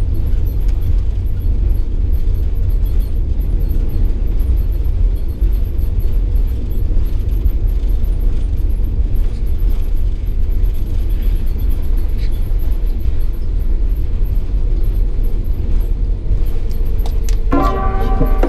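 Steady low rumble of an Airbus A330-900neo's cabin: engine and airflow noise heard from inside the airliner. Music comes in about a second before the end.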